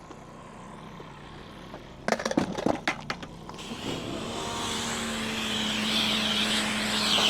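A few knocks and clatters of equipment being handled, then about halfway in a pressure washer starts spraying water: a loud steady hiss over the machine's even hum.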